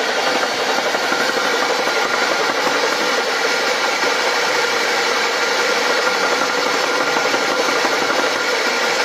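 Motorcycle engine running steadily, heard thin and without its low rumble, as a constant mechanical whine with several held tones.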